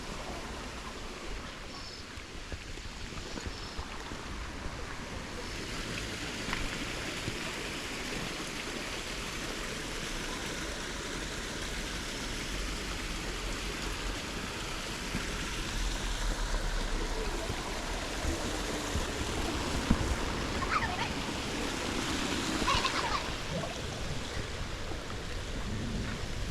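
Small stream running steadily, a continuous rush and trickle of water.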